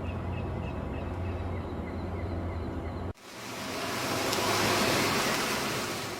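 A steady low engine rumble with faint high chirps. About three seconds in it cuts off abruptly to the hiss of a wave that swells and then fades away.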